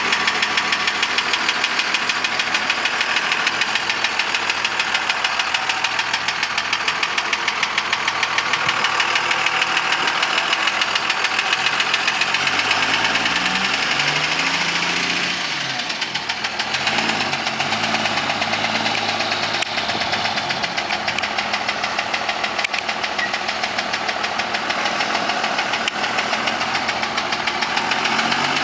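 24-valve Cummins 5.9 L inline-six turbodiesel in a 2002 Dodge Ram, running with a fast, steady knock. The owner takes the knock for an engine knock. The engine note shifts briefly about halfway through.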